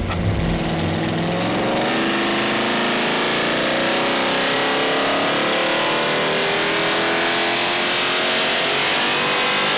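Carbureted Ford 390 FE big-block V8 on an engine dyno making a full-throttle pull from 2,500 to 6,000 rpm, its pitch climbing steadily the whole time. It runs nice and smooth.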